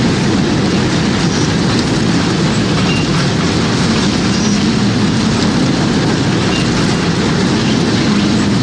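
Tornado sound effect: steady, dense wind noise, heaviest in the low range, with no letup.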